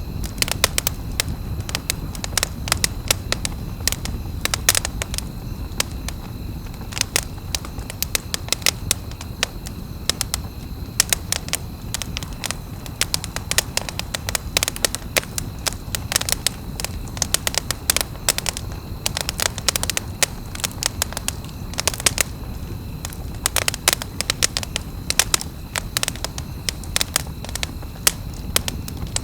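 Wood campfire crackling, with frequent irregular sharp pops over the low steady rumble of the flames.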